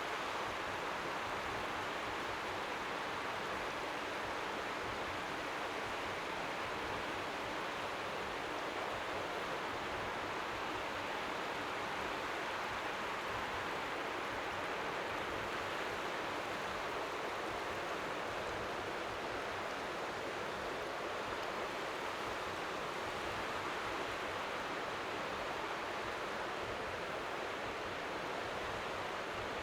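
Steady, unchanging hiss of strong wind by the sea, with faint waves lapping on the shore beneath it.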